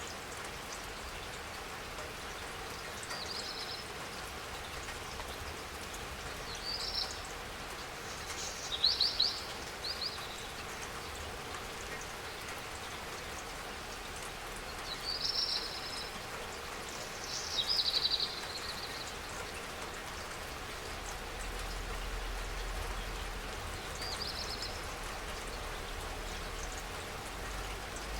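Steady spring rain falling, with a bird chirping briefly now and then, about six short high calls.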